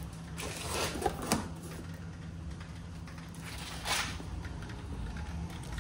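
Brief scraping and sliding sounds with a couple of sharp clicks, as of engine parts and tools being handled, over a steady low hum.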